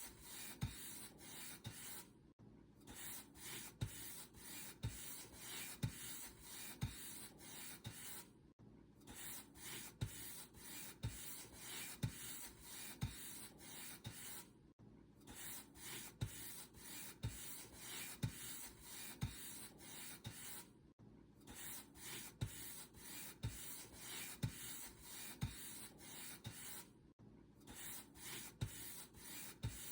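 Paint brush bristles brushing back and forth over a surface in steady, repeated strokes, each with a soft low tap. A brief pause comes about every six seconds.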